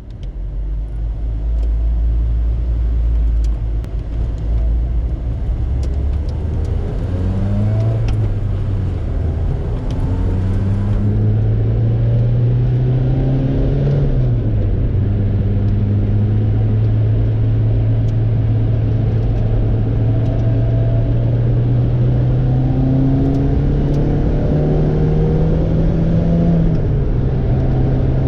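Lotus sports car engine pulling hard on a race circuit. Its note climbs steadily and drops sharply at each upshift, several times, and holds a steadier pitch in between.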